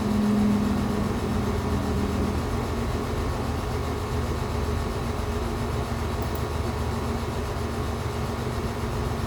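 A steady low mechanical hum with a droning tone, louder for the first couple of seconds and then carrying on more faintly.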